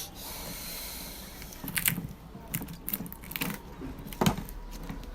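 Hands and tools working on a woofer amplifier to open it: a scattered series of short clicks and knocks, the loudest about four seconds in.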